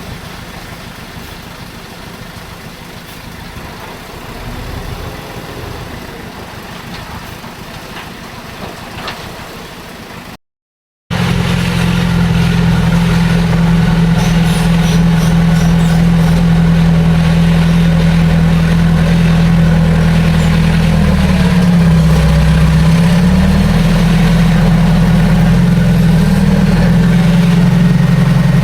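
Heavy diesel engine of earthmoving equipment running steadily up close, its pitch dipping briefly and recovering about two-thirds of the way through. Before that, after a quieter stretch of steady noisy hiss, the sound cuts out for a moment and the engine comes in much louder.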